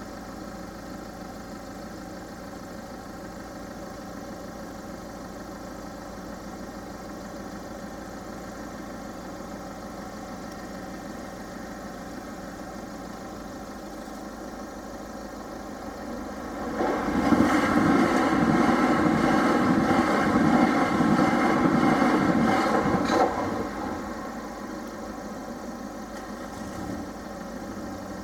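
Level crossing alarm sounding steadily. About two-thirds of the way through, two coupled Class 375 electric multiple units pass at speed without stopping. For about six seconds they make a loud rush with rapid clatter of wheels over the rail joints, then fade.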